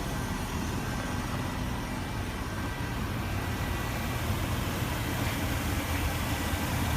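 2015 Range Rover Supercharged's 5.0-litre supercharged V8 idling steadily.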